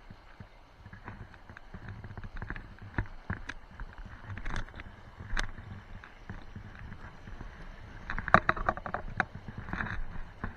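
Irregular sharp clicks and knocks over a low, steady background rush, with a quick cluster of clicks about eight seconds in.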